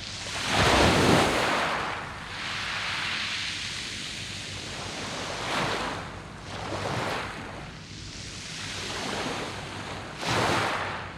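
Sea waves breaking on a beach of rounded pebbles, coming in as repeated surges of rushing water over a steady wash, the strongest about a second in and near the end.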